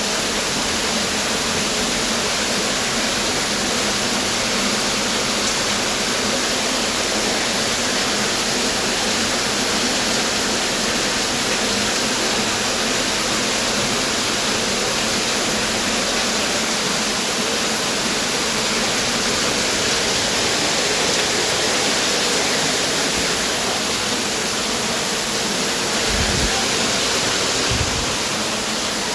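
Steady, full rush of a tropical waterfall, with two brief low bumps near the end.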